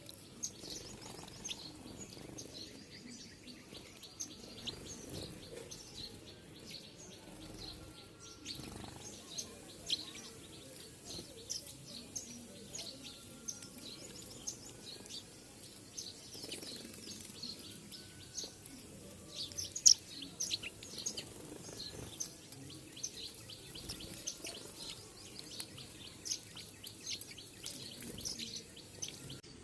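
A flock of small birds chirping continuously, many short overlapping chirps, with one sharp click about two-thirds of the way through.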